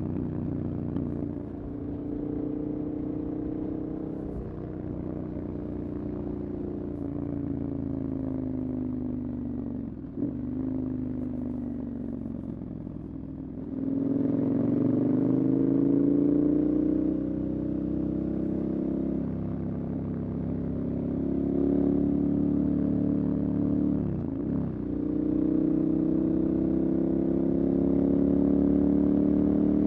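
Motorcycle engine under way, its pitch sagging and climbing as the throttle changes, with brief gear-change breaks about ten seconds in and again near 24 seconds. It gets louder with a rising pitch at about 14 seconds as the bike accelerates.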